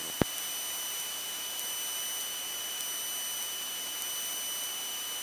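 Steady electronic hiss with a thin high-pitched whine from the aircraft's headset intercom audio feed while nobody transmits, with a single click about a quarter second in.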